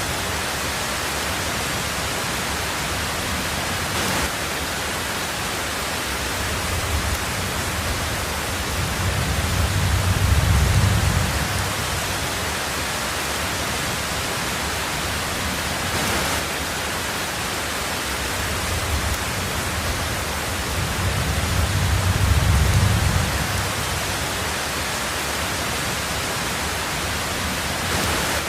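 Heavy rain pouring steadily on a tin roof. Low rumbles of thunder swell twice, about nine and about twenty-one seconds in.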